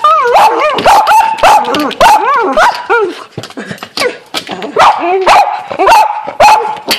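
Dogs barking and yipping in quick, unbroken succession, several barks a second, with a drawn-out whine running under the barks, as they go after a bird through a window.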